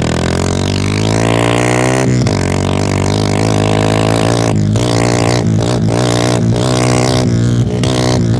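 Kawasaki KLX150's single-cylinder four-stroke exhaust as the bike pulls away and accelerates, rising in pitch over the first two seconds. The pitch breaks briefly at a gear change about two seconds in, then the engine runs at fairly steady revs with several short throttle lifts.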